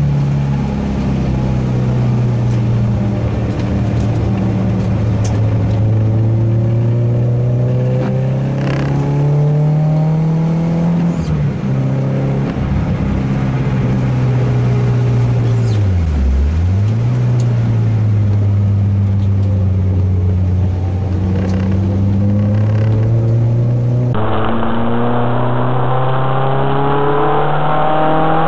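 Renault Clio 2 RS's 2.0-litre four-cylinder engine running hard under load, its note climbing and falling as the revs change. About halfway through the revs drop sharply and pick straight back up.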